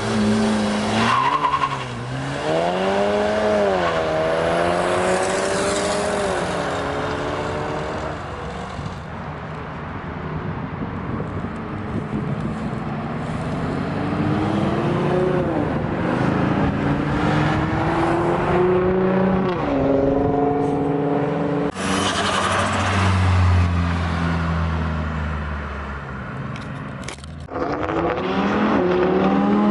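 Several car engines revving and accelerating past one after another, each pitch climbing through the gears and dropping between shifts.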